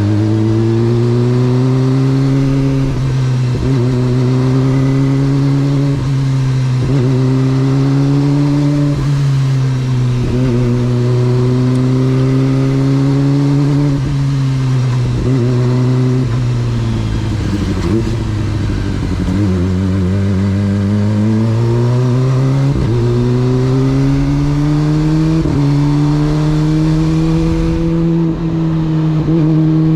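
Kawasaki sport motorcycle engine under way, running at a steady engine speed with brief dips in pitch every couple of seconds. Its pitch falls away around the middle and rises again as it pulls back up through the second half.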